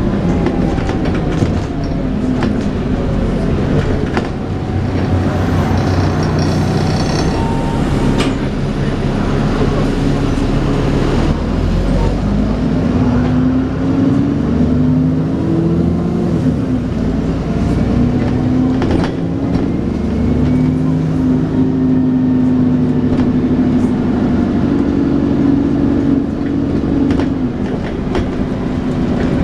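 Dennis Trident 2 double-decker bus engine and drivetrain under way, with the whine that bus enthusiasts call 'hoovering'. The engine pitch climbs and drops back several times as the bus pulls away and works through its gears, with some knocks and rattles from the bodywork.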